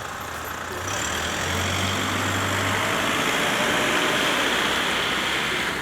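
Heavy tractor truck hauling a Shinkansen car on a low trailer, its diesel engine running as it passes close by. The sound grows louder about a second in, a low engine hum under a steady rush of noise.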